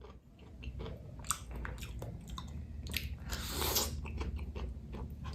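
Close-miked mouth sounds of a person chewing a cabai gendot chili, with many small wet clicks and crunches.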